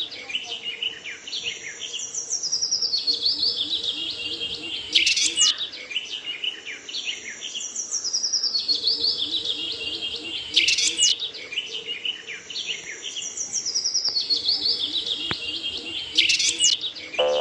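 Birdsong: high chirps and trills in a pattern that repeats about every five and a half seconds, a looped birdsong sound effect.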